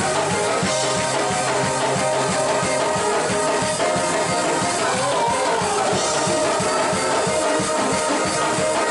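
Band music with drums and guitar keeping a steady beat, with no voice.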